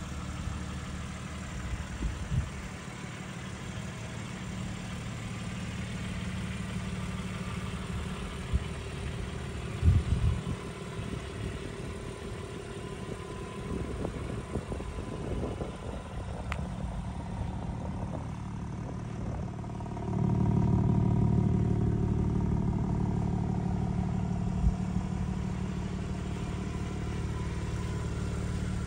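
BMW M3 Competition's twin-turbo inline-six idling steadily, growing louder about twenty seconds in, with a few light knocks near the start and about ten seconds in.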